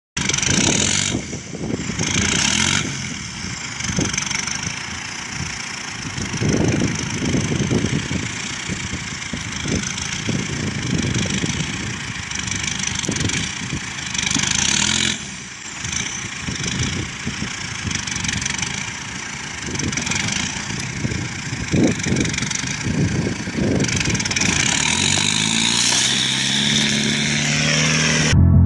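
Truck engine running and revving under load, uneven throughout, with the pitch climbing in a rising rev near the end.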